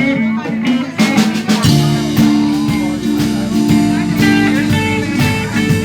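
Live blues band playing: a guitar lead over bass and drums, with the low bass notes growing stronger about a second and a half in.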